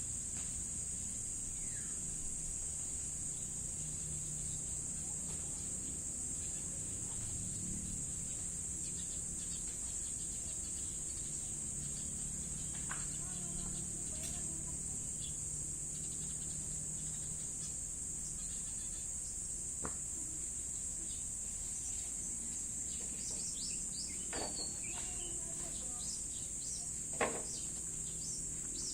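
Steady high-pitched insect chorus, with a few short bird chirps near the end and a single click.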